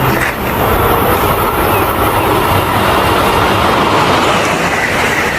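Train running on the track: a steady, loud rumble of wheels on rails, with a thin high tone coming in near the end.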